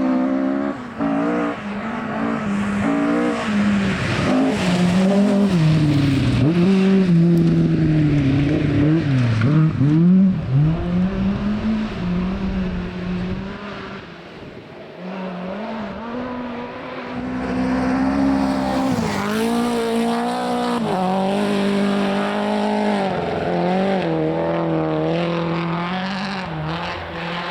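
Rally car engines at a corner. An engine revs up and down through the gears for about the first half, its note rising and falling, then fades. After a short lull, another engine comes in loud and revs hard to the end, with some tyre noise.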